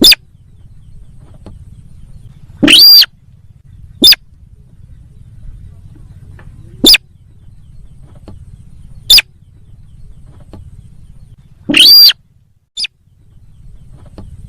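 Lure-call recording of the sintar sawah bird: short, very loud single calls repeated at irregular intervals of one to three seconds, two of them longer than the rest, over a low steady hum.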